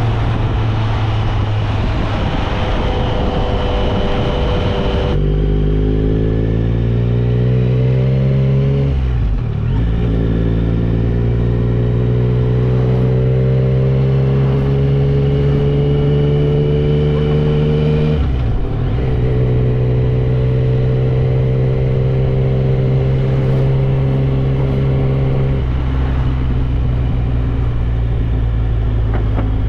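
Yamaha Tracer 9 GT's inline three-cylinder engine through an aftermarket Dominator exhaust, accelerating under way. The revs climb, dip briefly at a gear change about nine seconds in and again around eighteen seconds, then hold steady and drop lower near the end.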